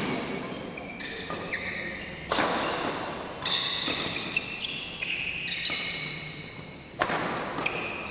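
Badminton doubles rally: sharp racket hits on the shuttlecock every second or so, with shoes squeaking on the court floor between strokes.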